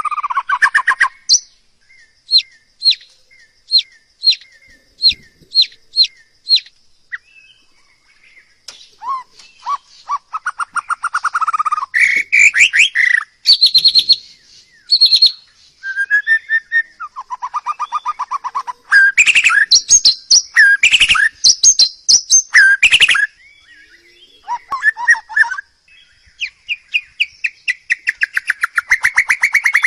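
A songbird singing loudly in varied phrases: first a run of about eight short sharp whistled notes, evenly spaced, then fast trills and warbled phrases, with a quick rapid trill near the end.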